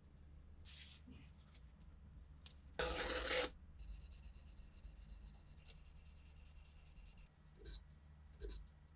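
Hand rubbing and scraping on a Mauser K98 rifle part, with a short, loud hiss about three seconds in. A few light taps follow near the end.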